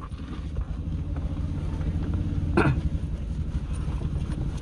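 Toyota Calya's engine idling steadily, heard from inside the stopped car, with a single dull knock about two and a half seconds in.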